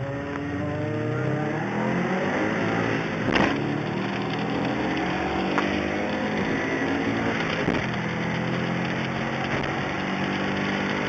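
Car engine accelerating hard through the gears, heard from inside the cabin: its pitch climbs, drops at an upshift about three and a half seconds in and again near seven and a half seconds, then climbs again.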